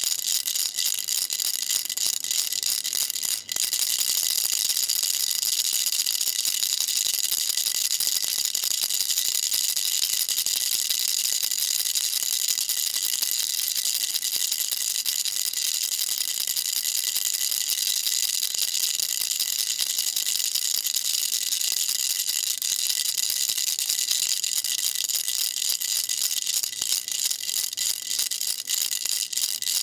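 Baby rattle shaken nonstop, a dense, even, bright rattle of many tiny clicks from the beads inside, with a brief break about three and a half seconds in.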